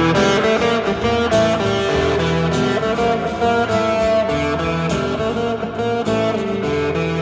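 Live band playing an instrumental passage led by guitar, with strummed and plucked strings, before the vocals come in.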